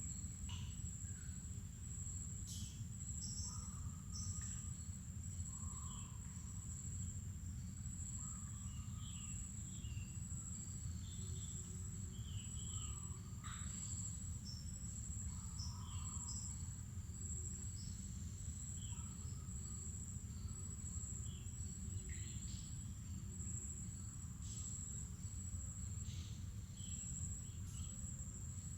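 Mangrove forest ambience: a steady, high-pitched insect drone with many short, scattered bird chirps and calls over it, and a steady low rumble underneath.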